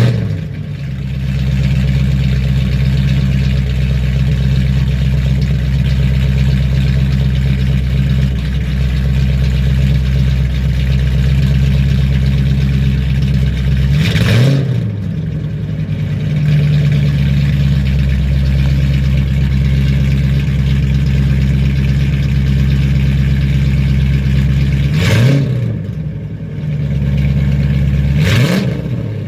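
Straight-piped 1989 Ford Mustang GT 5.0 V8, with BBK headers and an X-pipe and no mufflers, idling loudly and steadily. It is blipped three times, about halfway through and twice near the end, each a quick rise and fall in pitch.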